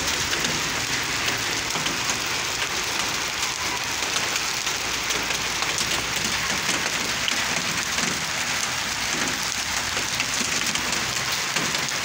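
Heavy rain falling steadily, a dense even hiss of drops hitting hard surfaces.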